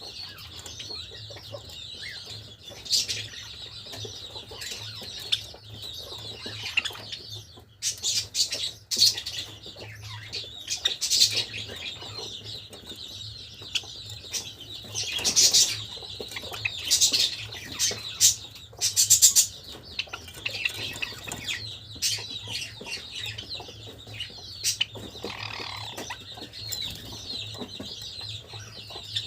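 Java sparrows chirping continuously in a small flock, with repeated wing flutters and sharp clicks; the loudest flurries come about a third and two-thirds of the way through.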